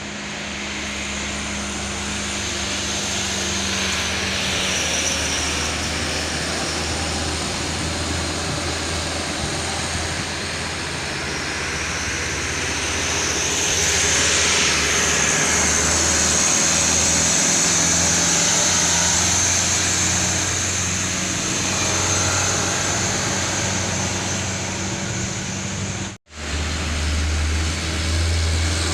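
Loaded sugarcane truck's engine pulling under load, a steady low hum beneath a broad wash of road and traffic noise that swells about halfway through. The sound drops out for a split second near the end, then the engine hum comes back louder.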